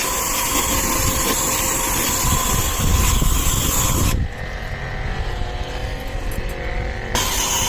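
Portable jet-pump pressure washer running, its motor whine under a steady hiss of water spray. About four seconds in the spray hiss cuts off sharply for about three seconds while the pump keeps humming, then comes back.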